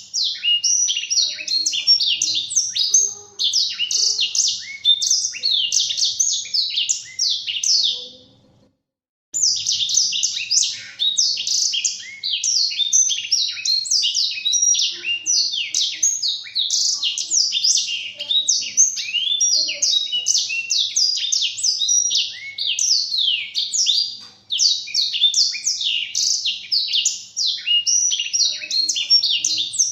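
Black-throated canary (blackthroat) singing a long, fast twittering song of quick high notes sweeping up and down. The song breaks off for about a second around eight seconds in, then runs on without pause.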